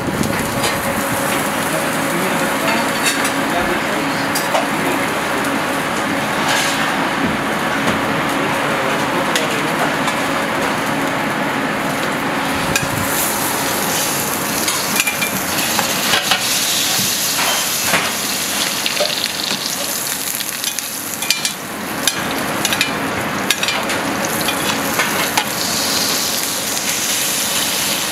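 A portobello mushroom cap sizzling as it fries in fat in a copper pan, a steady hiss with scattered sharp clicks of a spoon against the pan as the chef bastes it.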